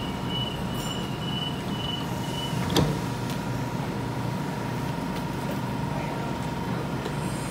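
Waratah B-set electric train standing at the platform, its onboard equipment giving a steady hum with a thin whine. A higher tone drops out and a single sharp click comes a little under three seconds in.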